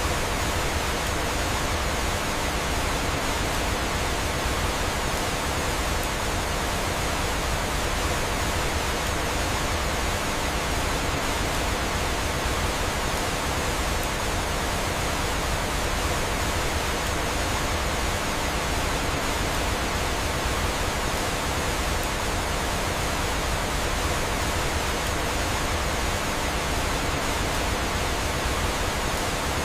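Steady rush of flowing water, like a waterfall, an even hiss with no change in level.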